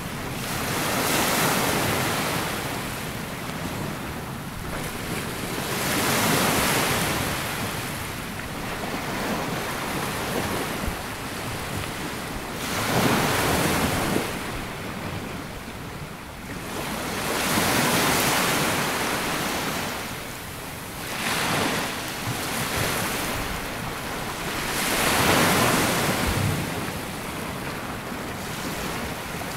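Sea waves breaking and washing up a sandy beach, the surf swelling and falling back in a rhythm of about one wave every five to six seconds.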